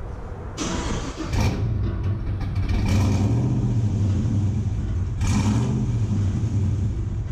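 Truck V8 with a freshly installed Texas Speed Stage 4 cam and DOD delete, cranked and firing on its first start after a new tune. It runs unevenly for several seconds. This first start attempt on the quick tune falls short, and the tune needs reworking.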